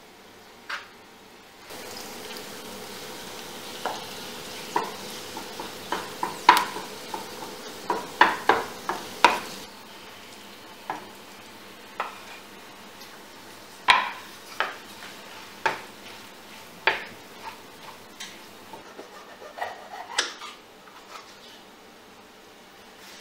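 Kitchen cooking sounds: a utensil clinks and scrapes against a pan and dishes, over a steady hiss that stops about ten seconds in. Scattered clinks of cookware and cutlery carry on until near the end.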